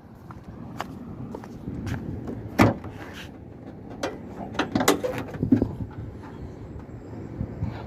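Sharp mechanical clicks and knocks of a small car being handled, over a low steady rumble. There is one loud knock about two and a half seconds in, and a quick cluster of clicks between four and five and a half seconds.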